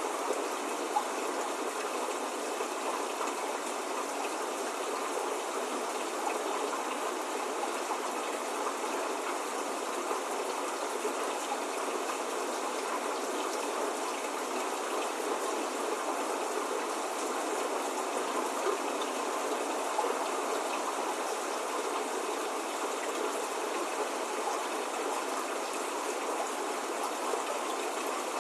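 Steady spring rain falling, an even hiss with scattered drops.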